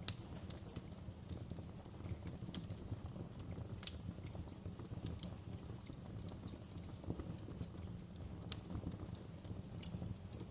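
Wood fire burning in a fireplace: a steady low rumble of flames with irregular crackles and sharp pops from the burning logs, the loudest just at the start.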